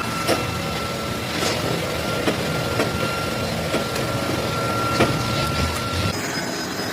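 Metalworking machine tool running steadily, with a thin high whine over a rumbling hiss and scattered sharp clicks. The whine steps slightly higher about six seconds in.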